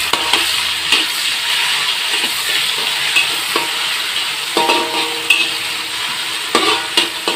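Chilli paste and sliced aromatics sizzling in hot oil in a wok while being stirred with a spatula, which scrapes and knocks against the pan several times.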